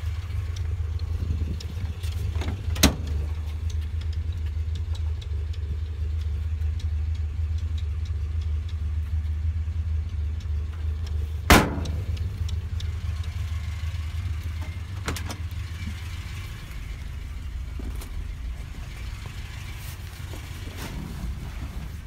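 1972 Lancia Fulvia's narrow-angle V4 engine idling with a steady low drone. Two sharp clicks cut through it, one about three seconds in and a louder one near the middle.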